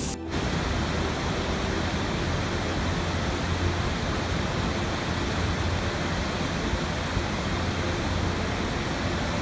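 Rushing water, a steady, even rush with a low rumble beneath, after a brief break right at the start.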